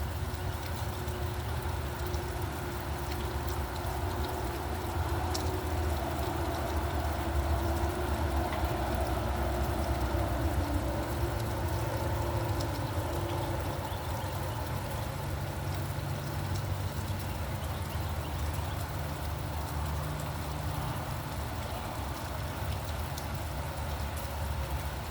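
Steady rain with the low rumble of road traffic passing, a constant wash of rainfall over a deep traffic drone.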